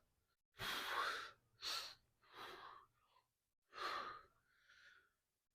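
Four heavy, breathy breaths from a man getting ready for a heavy barbell squat set, the first one the longest.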